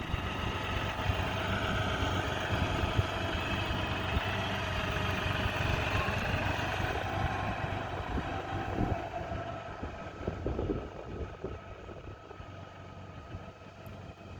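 Diesel tractor engine running steadily, growing fainter over the last few seconds.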